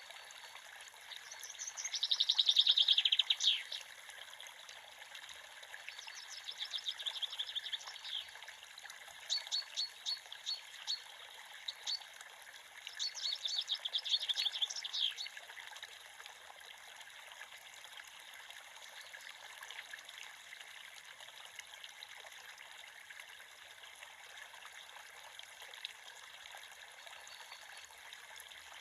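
Creek water running with a steady trickling hiss, while a songbird sings rapid trilled phrases four times in the first half, then only the water.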